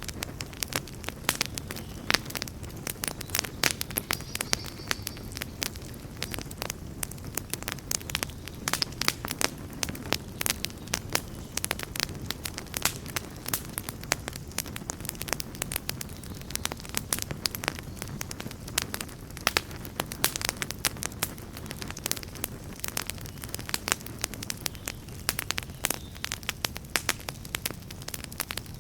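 Campfire burning, with a dense stream of sharp crackles and pops over a low steady rush of flame.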